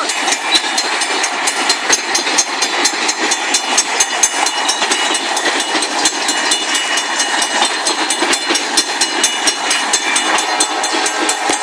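A long train's cars rolling steadily past a grade crossing. The wheels over the rails make a dense run of clicks and knocks, with faint thin high tones above them.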